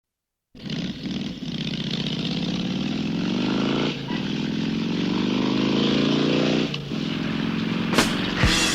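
Dirt bike engine accelerating up through the gears: the pitch climbs, then drops briefly twice at the gear changes. Near the end, sharp drum-like strikes come in as rock music starts.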